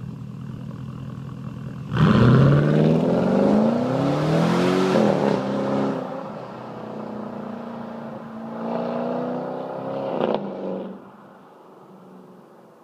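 Porsche Cayenne Turbo's twin-turbo V8 through a HAMANN exhaust. It idles, then about two seconds in pulls hard under acceleration, its note climbing and stepping back down through several gear changes. It eases off, climbs once more, then cuts off and fades near the end.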